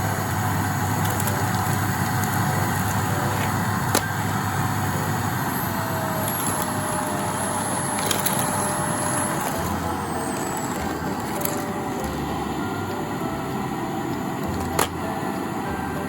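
Canister cyclone vacuum cleaner running steadily, a motor whine over airflow noise that dips slightly in pitch partway through, with a few sharp clicks.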